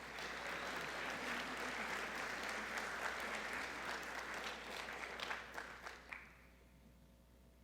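Audience applauding, fading out and stopping about six seconds in.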